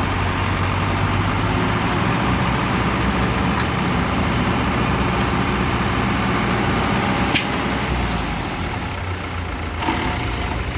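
Kubota M108S tractor's diesel engine running steadily under load as the tractor loses traction, its wheels spinning on wet, slippery ground, with heavy rain hissing throughout. A single sharp knock sounds about two-thirds of the way in.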